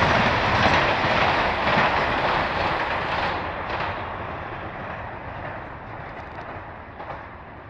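Electric commuter train running past on the rails, its wheel-and-rail noise fading steadily as it moves away.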